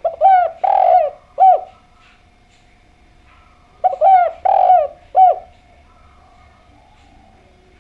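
Spotted dove (derkuku) cooing: two phrases about four seconds apart, each a few short coos around one longer drawn-out coo. This is the bird's full song.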